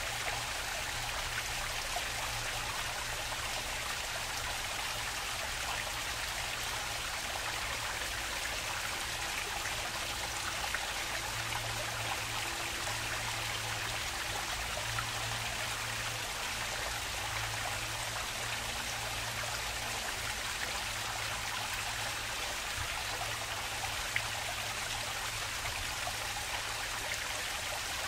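Water flowing and splashing in a park stream, a steady, even rush with small trickling splashes throughout, over a faint low hum.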